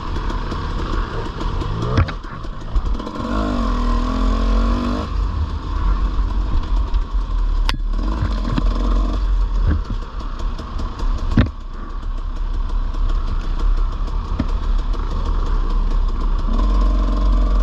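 Dirt bike engine running under way on a trail, its pitch rising and falling as the throttle is worked, over a heavy low rumble. A few sharp knocks come through, around two, eight and eleven seconds in.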